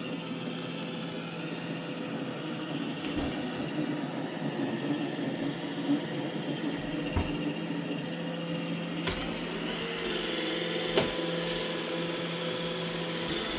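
iRobot Roomba E6 robot vacuum running: a steady motor and brush hum, with a few sharp knocks and a slight change in the sound about ten seconds in.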